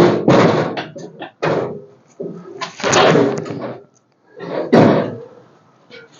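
Four loud bangs and scraping knocks, about a second apart at first, as a car's engine and transmission are worked out of the engine bay on a hoist.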